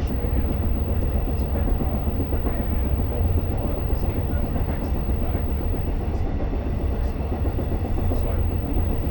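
Diesel-hauled Long Island Rail Road train running along the track, heard from inside the coach: a steady low rumble with faint clicks from the rails.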